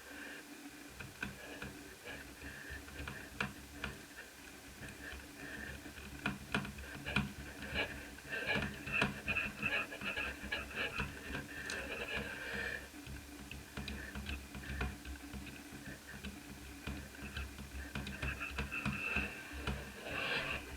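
Small clicks and taps of laptop parts being handled, coming in quick clusters, over a steady high whine and low hum.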